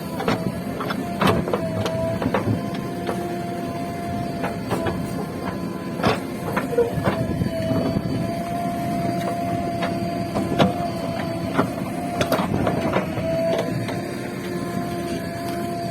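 JCB 3DX backhoe loader working: its diesel engine runs steadily under a held whine, with irregular sharp knocks and clanks as it digs.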